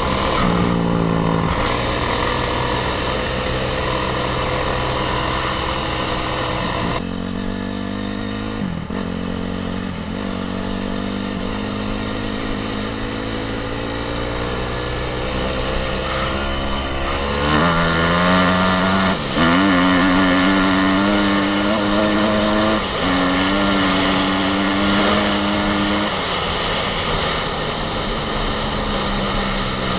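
Single-cylinder four-stroke off-road engine running under load while riding, its pitch climbing and then dropping sharply several times as it is revved and shifted.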